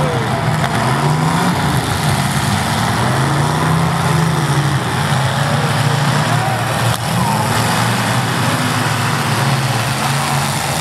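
Several demolition derby cars' engines revving up and down together as the cars drive and ram each other on a dirt arena floor, with a short knock about seven seconds in.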